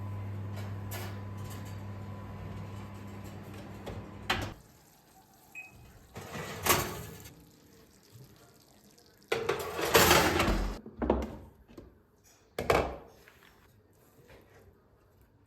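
Water running steadily into a container, cutting off about four seconds in, followed by a few bouts of clattering as dishes and pans are handled, the loudest about ten seconds in.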